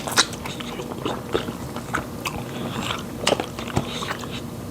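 Close-up eating sounds of fufu and pepper soup: wet chewing and lip smacks, with irregular short clicks.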